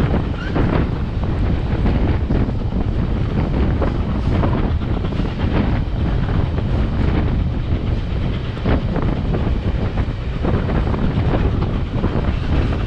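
Steel passenger railroad car rolling along the track: a steady rumble of wheels on rail with scattered clicks, and wind buffeting a microphone held outside the car.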